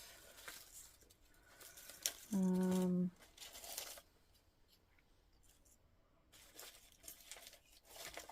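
Faint rustling and light ticks of paper and card pieces being handled and sorted through. About two and a half seconds in there is a short hummed "mm" from a person, the loudest sound.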